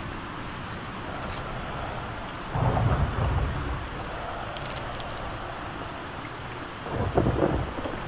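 Steady rain with two rolls of thunder, one about two and a half seconds in and another near the end.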